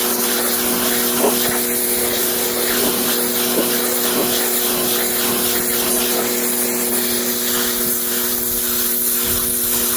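Pressure washer running steadily, a motor hum under the hiss of its water jet spraying into car carpet.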